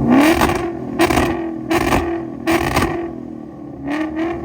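A car engine accelerating hard, its pitch rising and then holding, with several loud rushing bursts about a second apart.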